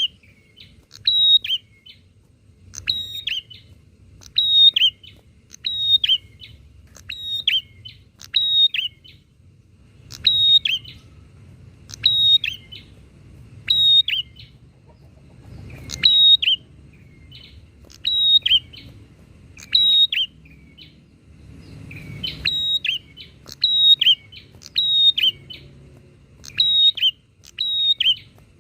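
Prinias (prenjak) calling back and forth, loud sharp chirping notes repeated about once a second, with brief pauses between runs of calls.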